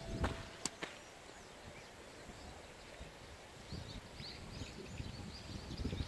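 Faint chirping of small birds, short calls scattered throughout, with a few sharp clicks in the first second.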